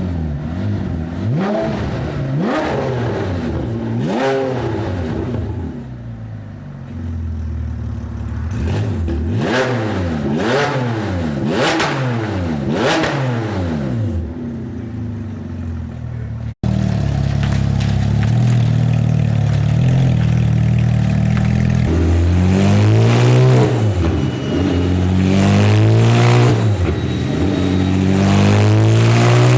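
Porsche 997 GT3 RS flat-six revved over and over in short rises and falls through a Ferrita straight-pipe exhaust. About halfway through the sound cuts to a louder, more sustained run, with the revs rising and falling again near the end.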